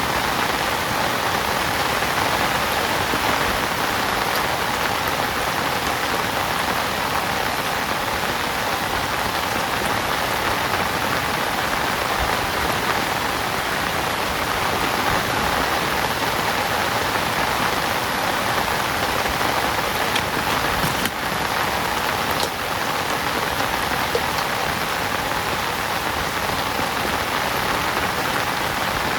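Steady heavy rain falling on a tent's fabric.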